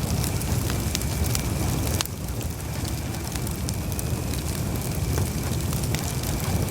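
Campfire burning: a steady low rumble of flames with scattered sharp crackles and pops from the wood. The rumble drops a little about two seconds in.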